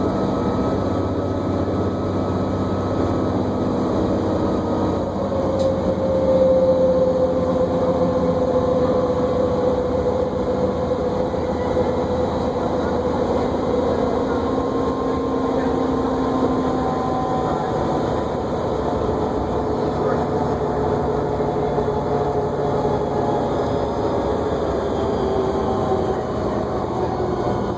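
Inside a New Flyer D40LFR diesel bus under way: steady engine and road noise with a whine that slowly falls in pitch, more than once.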